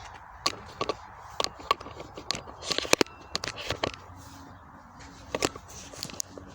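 Scattered sharp clicks and knocks of hands handling car parts, irregular and loudest around the middle, over a faint steady background.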